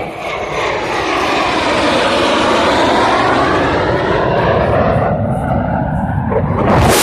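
USAF Thunderbirds F-16 Fighting Falcon jet flying past low and loud, its engine noise sweeping in pitch as it passes overhead.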